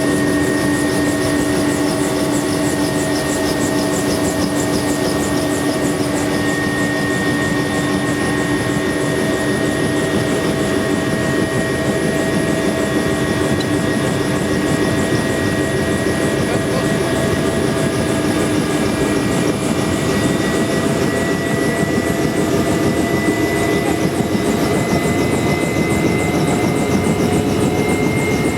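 Bell UH-1 Huey helicopter running, heard from the open gunner seat: a steady turbine whine and rotor noise with a fast, even beat. The whine creeps slightly higher in pitch over the last part.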